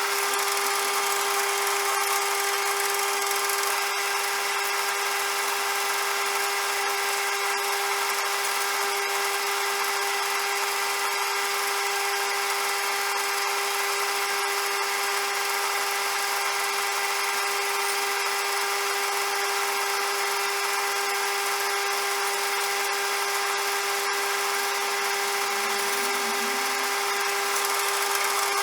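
CJM360 metal lathe running steadily, a constant whine over a hiss with no change in speed.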